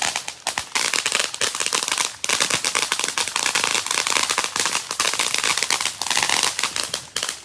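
A firework crackling: a dense, rapid string of cracks and pops that keeps up for several seconds.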